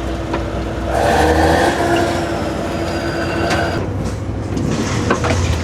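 John Deere combine harvester's diesel engine running steadily as the machine is driven, with a few sharp clanks and knocks near the end.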